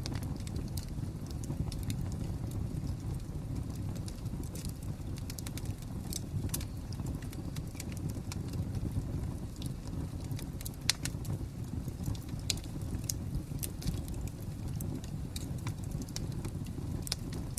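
Wood fire crackling: irregular sharp pops and snaps over a steady low rumble, with one louder pop about eleven seconds in.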